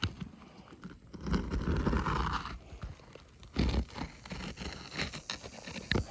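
Hand work on an asphalt shingle roof: a rough scraping, tearing stretch about a second in, then one sharp knock near the middle, with scattered small clicks.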